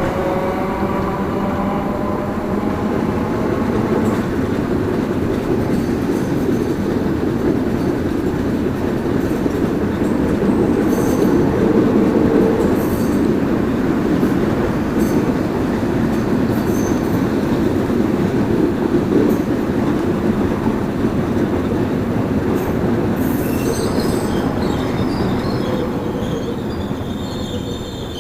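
A narrow-gauge electric train of Rome's Laziali line runs past with a steady rumble of wheels on rail. A rising motor whine fades out in the first few seconds, and high wheel squeals come near the end as the sound fades away.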